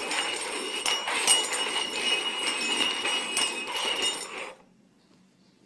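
Cups being shuffled around on a table, a continuous scraping and rattling with ringing clinks, which stops suddenly about four and a half seconds in.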